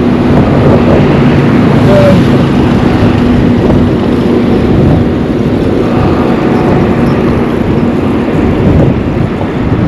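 Wind rumbling on the microphone, with a steady motor vehicle engine hum that fades out about eight seconds in.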